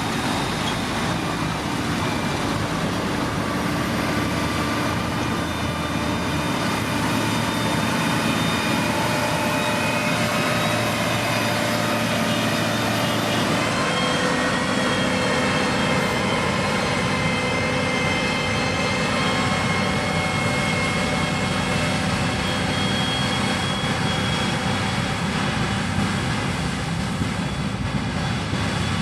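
Diesel engines of heavy earthmoving machinery running steadily under load, with several whining tones over the engine noise. The tones change pitch about halfway through.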